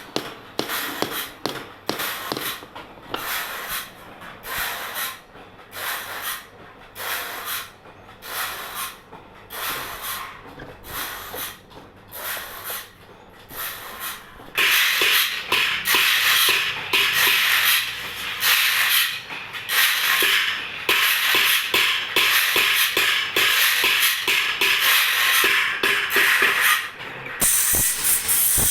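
Rhythmic rasping metalwork strokes on a bandsaw blade, about two a second. From about halfway the strokes turn louder and busier.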